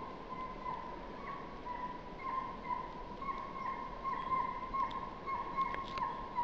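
Russian hound bitch giving tongue on a hare's trail: a steady run of short, high yelps of even pitch, about two a second.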